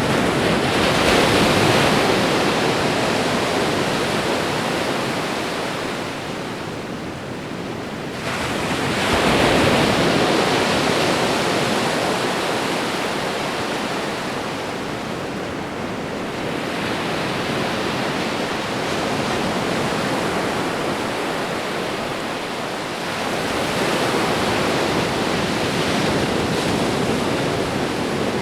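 Ocean waves breaking and washing on a shore, a steady surf that swells louder about every ten to fourteen seconds, with the biggest surges near the start and about nine seconds in.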